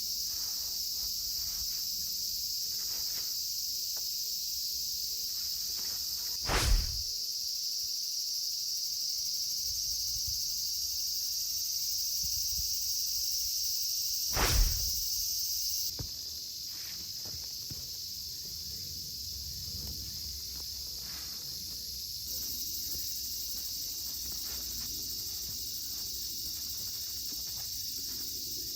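A steady high chorus of insects chirring, with scattered small clicks and rustles of handling. Two loud, short thumps come about 8 seconds apart.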